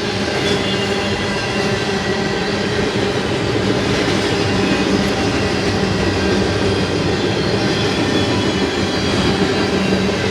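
BNSF intermodal freight train passing close by: steady running noise of wheels on the rails with a constant hum underneath.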